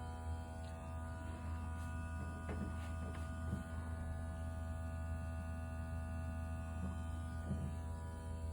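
Steady electric hum of a vacuum-leak smoke machine's pump running while it feeds smoke into the engine's intake, with a few faint light clicks.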